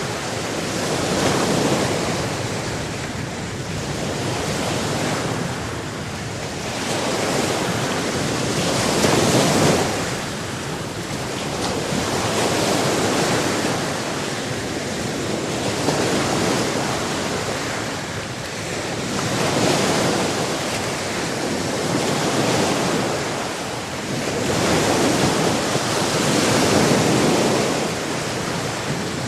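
Sea waves washing ashore in a continuous rush of water, swelling and falling back about every three to four seconds.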